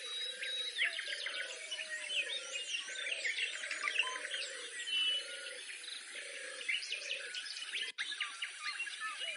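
A field recording of birds: many small birds singing and chirping high and fast, over a low call repeated about once a second, which fits one of the gamebirds of the quiz. The sound cuts out for an instant near the end.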